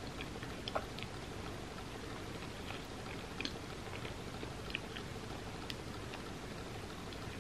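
Close-miked chewing of a bite of pizza with the mouth closed: scattered small wet clicks and smacks over a steady background hiss.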